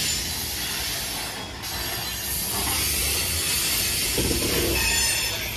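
Coal train's rapid-discharge hopper cars rolling past close by: steel wheels running on the rails with a steady rumble and hiss.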